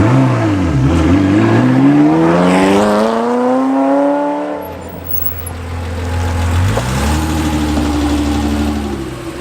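A car engine accelerating. Its pitch dips briefly, then climbs steadily for about three seconds, drops back to a steady lower drone, and rises again about seven seconds in and holds.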